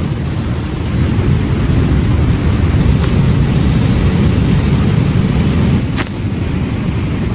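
Surf rumbling on a beach, mixed with wind on the microphone. A deep, noisy rumble swells for several seconds, then eases about six seconds in.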